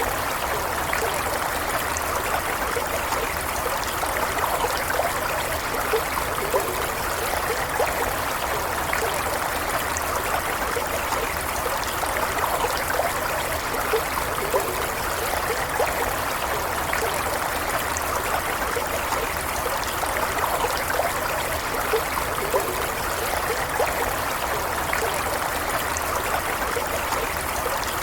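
A small stream flowing and trickling steadily, with little bubbling splashes.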